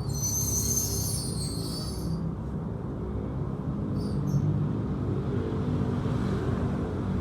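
Motorcycle engine running steadily, with a shrill high-pitched sound over it for about the first two seconds.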